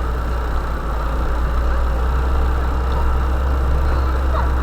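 UAZ-452 'Bukhanka' van's engine running steadily, a continuous low drone while the van works through rough forest track.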